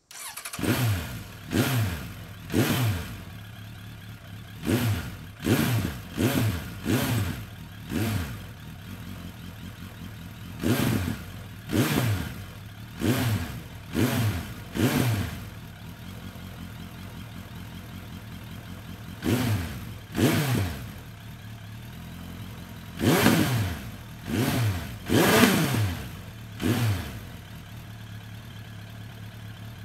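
2003 Suzuki Bandit 1200's air/oil-cooled inline-four through a Delkevic Stubby 14" carbon fibre oval slip-on muffler, idling and being blipped about seventeen times. Each quick rev rises and drops back to idle, often two or three in close succession, with a few seconds of plain idle between groups.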